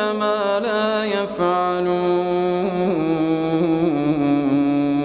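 A man's voice chanting Quranic recitation (tartil), holding one long, ornamented vowel without a break. The pitch steps down a few times.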